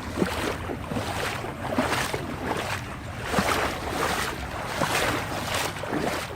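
Floodwater splashing and sloshing in repeated surges, about one to two a second, over a steady rush of water.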